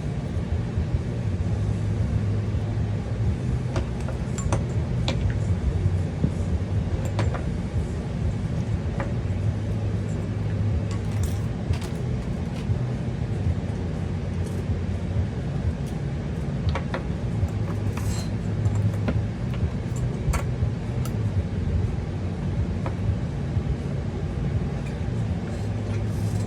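Steady low hum with scattered small clicks and ticks of a tool and parts being handled, as a small screw is worked into a paintball marker's frame.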